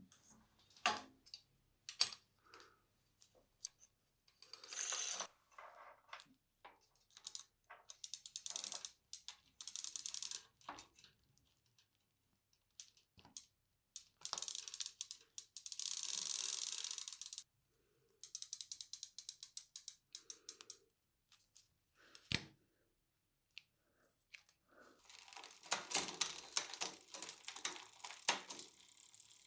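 Bicycle parts being worked on by hand: irregular sharp metallic clicks and several short runs of rapid ratcheting ticks.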